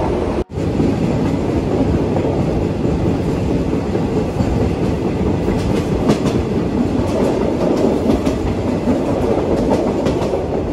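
Thai Railways third-class train running along the track, heard from inside the carriage: a steady, loud rush of wheel and track noise. It cuts out briefly about half a second in.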